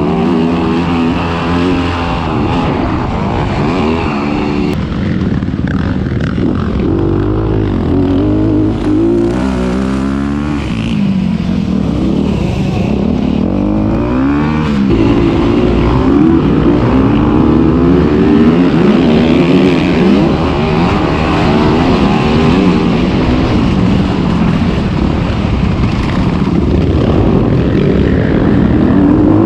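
Motocross dirt bike engines revving, the pitch repeatedly climbing and dropping as the bikes accelerate and shift, at times more than one bike at once.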